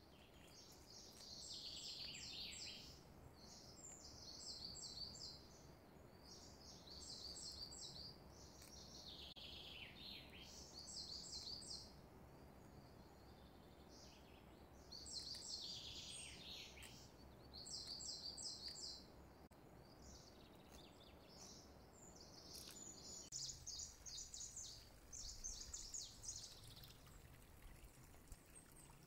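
Faint bird song: short bursts of high, rapid chirps, some sweeping downward, repeating every couple of seconds over a low steady hiss.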